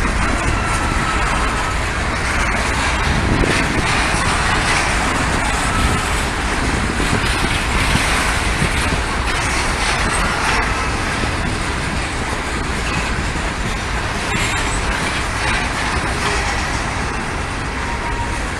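Norfolk Southern freight train rolling past, a steady loud rumble of wheels and cars on the rails, with a few faint, brief wheel squeals now and then.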